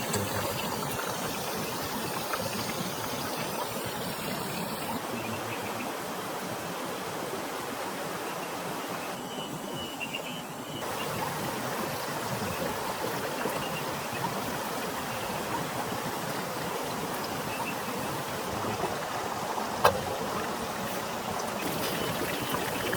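Steady rain falling, with water trickling; a single sharp knock about twenty seconds in.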